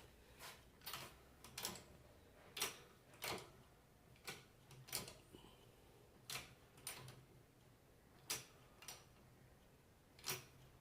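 Faint, sharp mechanical clicks at irregular spacing, about one or two a second, as a shop press is worked down to press a new bearing into an alternator part.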